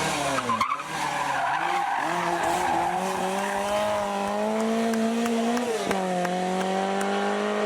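Rally car engine under hard acceleration, its pitch climbing slowly through a gear and then dropping suddenly at an upshift about six seconds in, over a steady hiss.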